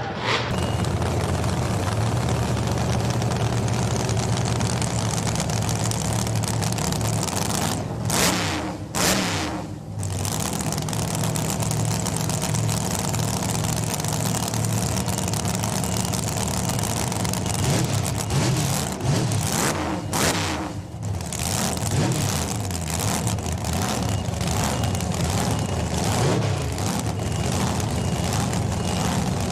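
Loud vehicle engine running hard, with brief drops in level about eight to ten seconds in and again about twenty seconds in, like lifts off the throttle.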